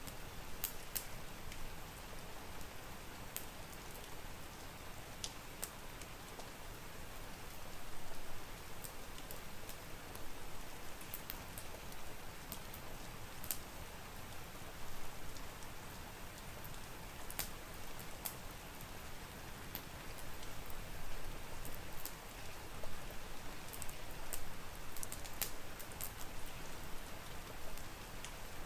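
Steady rain mixed with a crackling wood fire: an even wash of rain with scattered sharp pops at irregular times.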